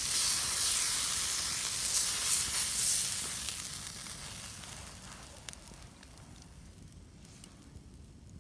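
Food sizzling on a hot, extra-thick iron plate, a dense crackling hiss that dies away about halfway through, leaving a few faint crackles.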